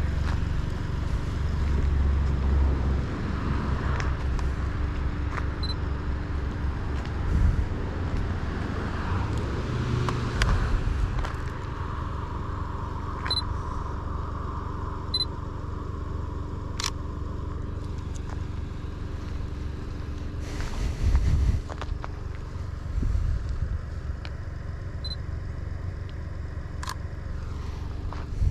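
Seat Ibiza FR's 1.0 TSI three-cylinder turbo petrol engine with a Friedrich sport exhaust, heard on the move with road noise. It is louder and more uneven for the first ten seconds or so, then settles to a steadier, quieter cruise, with a few light clicks.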